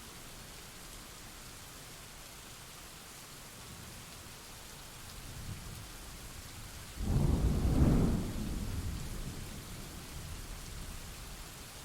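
Thunderstorm: steady rain hiss, with a thunderclap about seven seconds in that starts suddenly, peaks a second later, and rumbles low as it fades over a few seconds. A faint low rumble comes a little before it.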